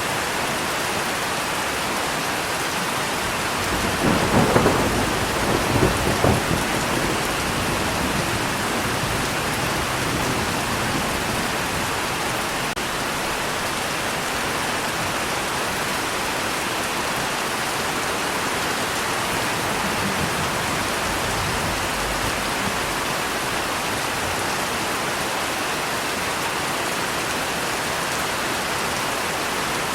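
Steady heavy rain falling, with a crack and rumble of thunder about four seconds in that lasts a couple of seconds before the rain alone carries on.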